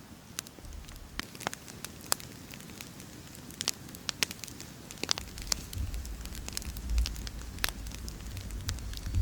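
Campfire crackling, with irregular sharp pops of burning wood. A low rumble joins it about five seconds in.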